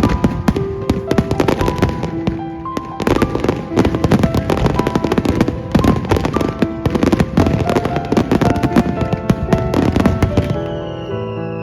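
Fireworks going off in dense, rapid volleys of bangs and crackle, mixed with background music. The bangs stop about ten and a half seconds in, leaving only the music.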